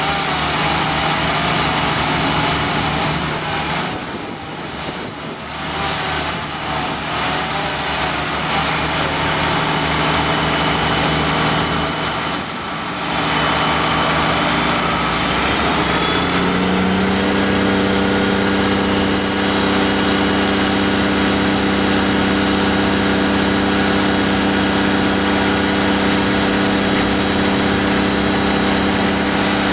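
Engines running, changing character a couple of times; from about 16 seconds in, one engine holds a steady, even note.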